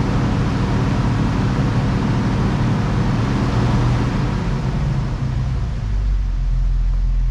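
Jeep Wrangler engine running at a slightly raised speed, then settling back to a steadier idle about six seconds in. The engine has a misfire on cylinder 4, which the scanner is counting and which is felt as a rough running.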